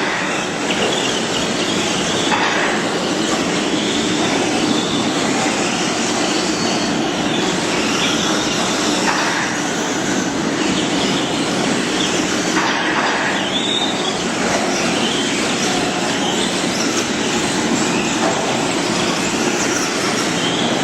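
Several radio-controlled off-road stock trucks racing, a steady din of small motors with short high whines rising and fading as trucks pass.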